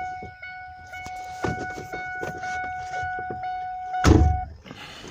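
A truck's dashboard warning chime sounds as one steady tone while small clicks come and go. About four seconds in there is a loud thunk, and the chime stops soon after. The truck, a 7.3 diesel, does not crank.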